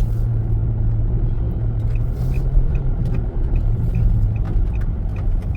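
Car driving, a steady low rumble of road and engine noise, with a faint regular ticking about twice a second starting about two seconds in.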